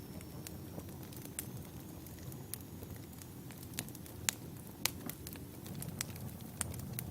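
Wood fire burning: irregular sharp crackles and pops from the burning logs over a steady low rumble of the flames, with the two loudest pops a little past the middle.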